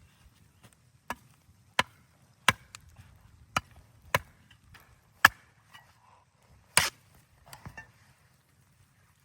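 Wood being chopped: seven sharp strikes, unevenly spaced about half a second to a second and a half apart, then a few softer knocks near the end.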